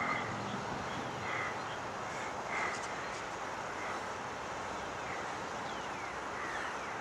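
Birds calling outdoors: short calls repeating about once a second and a bit, then a few quick down-slurred calls near the end, over a steady background hiss.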